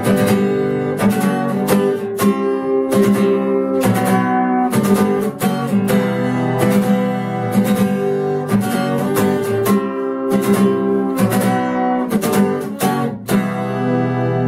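Acoustic guitar strummed in a steady rhythm through a chord progression, ending on a last chord left ringing near the end.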